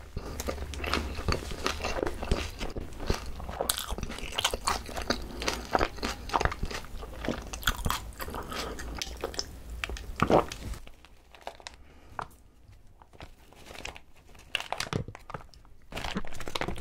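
Close-miked crunching and chewing of crispy Korean fried chicken with shredded green onion. The dense crunching drops off about eleven seconds in, leaving softer, sparser mouth sounds and light clicks.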